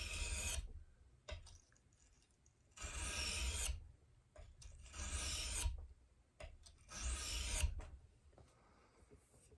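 Knife blade of 3V steel drawn along a water-soaked sharpening stone in slow, even strokes, about one every two seconds, four in all, with a couple of light knocks between strokes.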